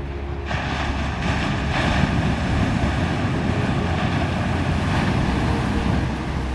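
Ocean surf rushing in a steady wash of noise that swells about half a second in and eases off near the end.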